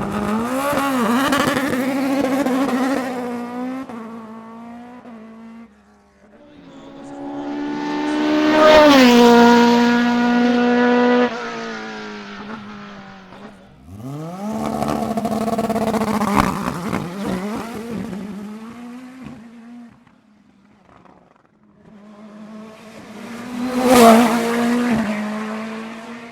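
Hillclimb race cars passing one after another at full throttle, four passes in all. Each engine note climbs through the gears in stepped rises and then drops in pitch as the car goes by. A sharp crack comes at the loudest moment near the end.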